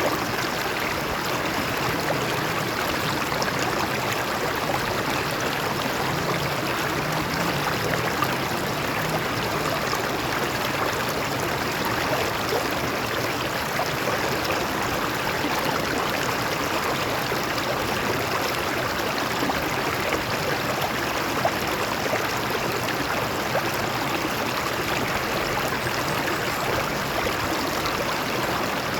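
Shallow stream water flowing and splashing over rocks in a steady, even rush.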